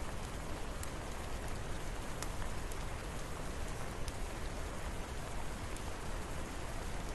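Steady rain falling, with a few faint sharp ticks scattered through it.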